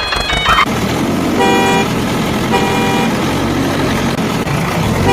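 Vehicle engine running with a horn giving short toots, each about half a second long, twice and again near the end.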